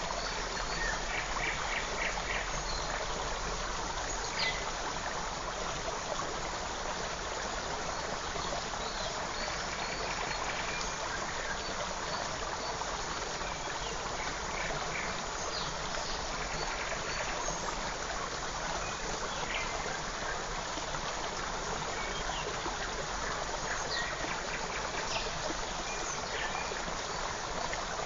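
A creek running steadily, with scattered short, high bird chirps over it.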